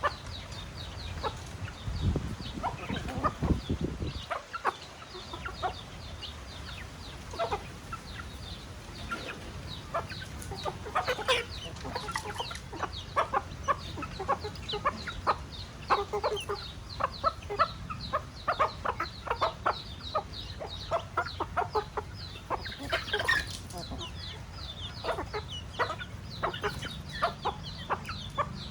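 A flock of chickens clucking, with a dense stream of short, high calls. A low rumble sounds briefly about two seconds in.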